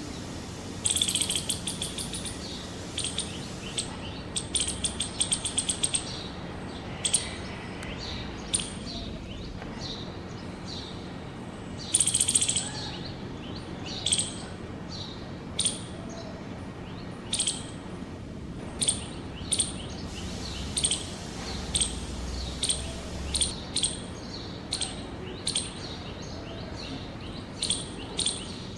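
Birds chirping: two longer trilling bursts, about a second in and about twelve seconds in, and between and after them short high chirps repeating roughly once a second, over a faint steady low hum.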